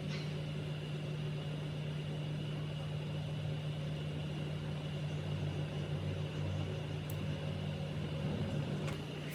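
Electric motor of a restored automatic pressure water pump running steadily under test, a constant hum with no change in pitch.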